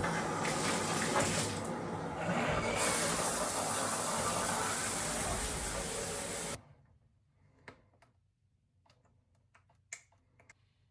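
Water running steadily, then cut off suddenly about six and a half seconds in; a few faint clicks and taps follow.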